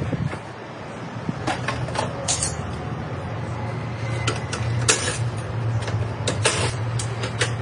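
Irregular sharp metal clanks and knocks from a car being taken apart, over a steady low engine hum.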